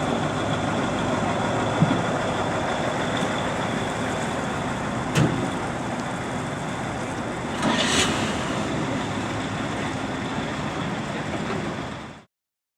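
Truck engines running steadily, with a sharp knock about five seconds in and a short hiss around eight seconds; the sound fades out abruptly near the end.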